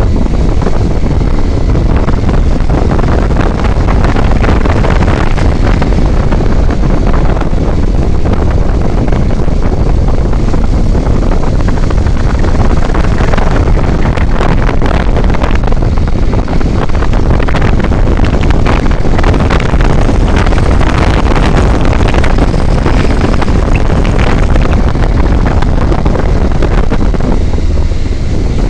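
Steady, loud wind rumble on the microphone over the running noise of a moving vehicle on the road.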